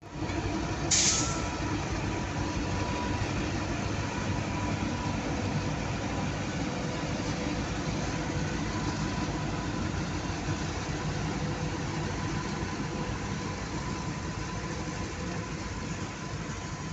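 KAI Babaranjang coal freight train running with a steady low rumble and faint steady tones, and a brief hiss about a second in.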